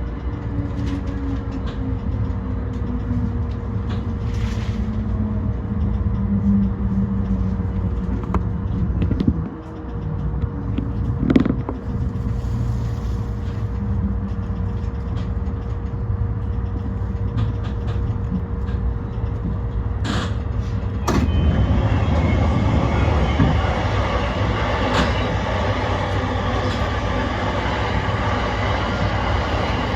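Yokosuka Line E235-1000 series electric train running, heard from on board: a steady rumble of wheels on rail with a motor whine that falls slowly in pitch over the first several seconds. A few sharp clicks come about a third of the way in and again about two-thirds in, after which the running noise turns louder and rougher.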